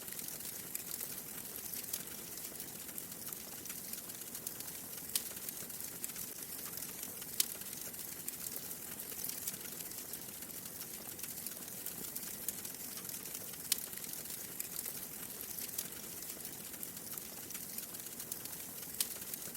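Wood fire crackling steadily in a fireplace, a soft hiss of small crackles with four louder pops spaced several seconds apart.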